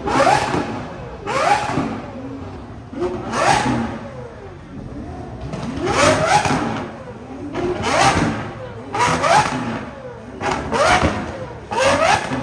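Car engine being revved hard again and again, roughly once every second or so, each rev climbing sharply in pitch and then dropping back.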